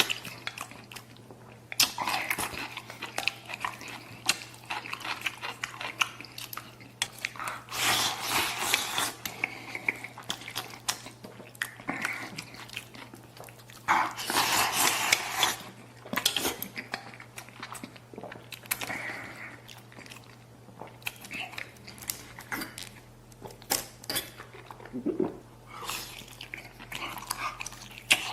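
A person eating with their mouth close to the microphone: chewing and biting in irregular bursts, with short clicks among them.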